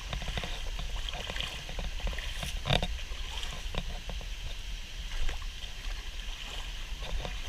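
Water sloshing and splashing in a cold waterfall pool, with a steady rush of water and a few short sharp splashes, the loudest a little under three seconds in.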